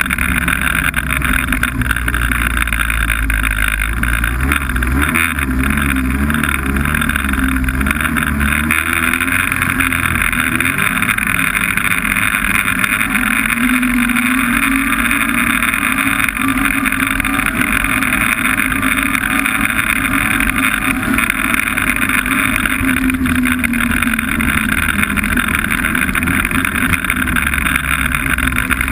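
Snowmobile engine running steadily under way, its note drifting up and down a little in pitch now and then as the speed changes.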